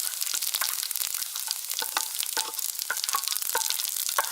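Cumin seeds, fennel seeds, a cinnamon stick and chili flakes sizzling and crackling in smoking-hot olive oil while being stirred in the pan, with frequent short clicks through the steady hiss.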